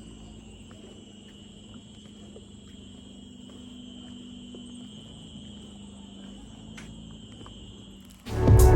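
Quiet background with a steady high-pitched hum and a faint low hum; loud music starts suddenly near the end.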